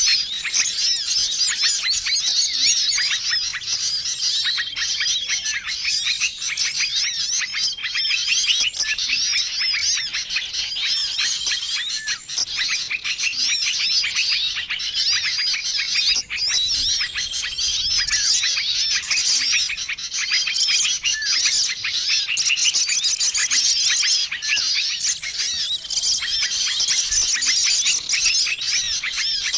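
Bird-lure recording of a dense chorus of small songbirds chirping and twittering over one another, with a short level whistle that recurs every two seconds or so.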